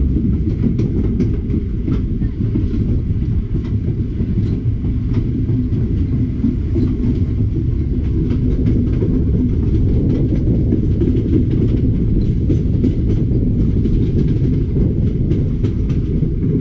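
Passenger train running along the track, heard from aboard at an open window: a steady, loud low rumble of wheels on rail with scattered clickety-clack clicks from the rail joints.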